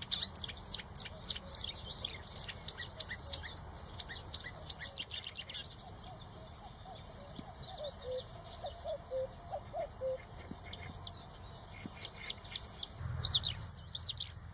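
Birds singing with rapid, high chirps: a fast string of loud notes for about the first six seconds, then softer, lower notes around eight to ten seconds in, and bright chirps again near the end.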